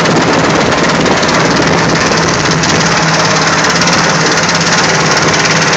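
Boat motor running loud and steady, with a constant low hum and a fast, even engine rattle.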